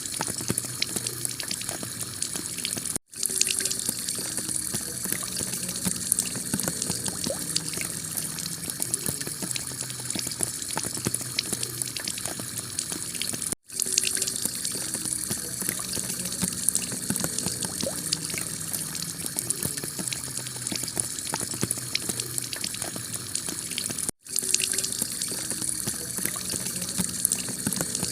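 Heavy rain pouring onto a clay-tile roof with running water, a steady hiss that cuts out for an instant three times, about ten seconds apart.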